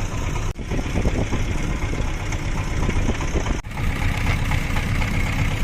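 Small fishing boat's engine running steadily, cut off for an instant twice, about half a second in and near four seconds.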